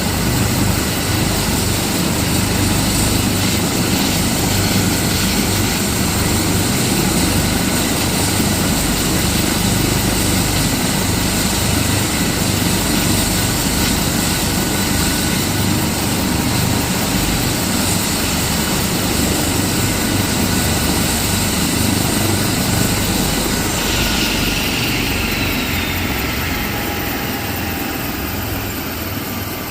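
Airbus ACH145 (BK117 D-3) helicopter running close by, with a steady turbine and rotor sound and a low beating of the blades. About 24 seconds in, a high whine begins falling in pitch and the whole sound slowly grows quieter.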